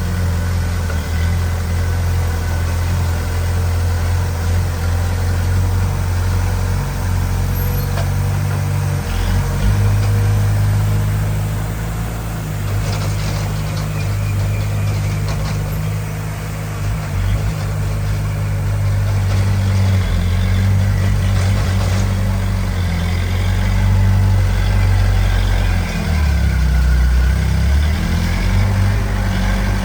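Heavy diesel engine of earthmoving machinery running under varying load, its low engine note shifting in pitch and loudness, with some scattered clatter around the middle.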